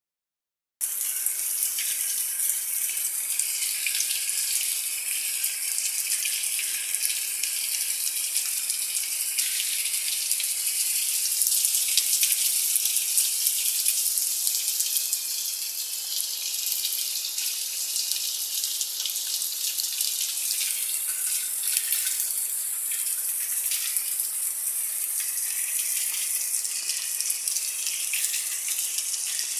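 Steady rain falling: a dense, even hiss of many small drops, starting suddenly under a second in.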